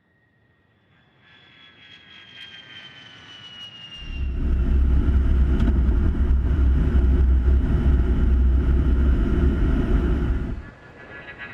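A-10 Thunderbolt II jet noise: an engine whine builds and slowly falls in pitch, then about four seconds in a loud, low rumble cuts in and stops abruptly some six seconds later.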